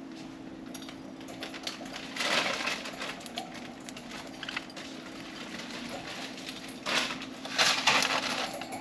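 Pet budgies rustling and clicking as they peck at millet and move about, with two louder flurries, about two seconds in and again near the end, over a steady low hum.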